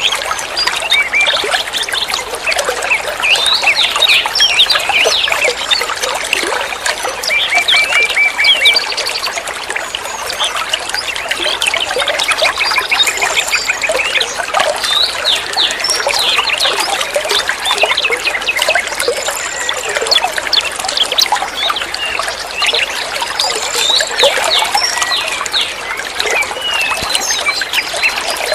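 Water trickling and flowing steadily, with many small birds chirping over it, including several quick trills of repeated notes.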